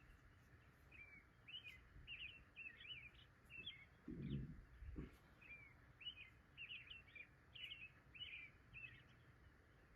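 A small bird calling faintly in rapid series of short chirps over a quiet background hiss, with two low thuds about four and five seconds in.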